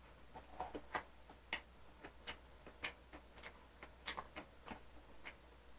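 Faint, irregular clicking and smacking of a person chewing food, about three or four small clicks a second.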